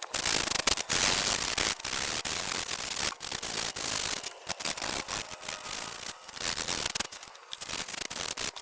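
Rough, stop-start rubbing or scrubbing noise, broken by many short pauses.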